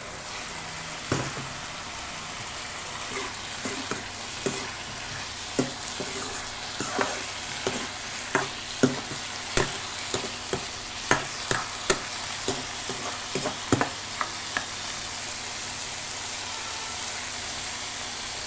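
Food sizzling in a hot pan while being stirred with a spatula, with frequent knocks and scrapes of the spatula against the pan. The stirring stops about fourteen seconds in, leaving the steady sizzle.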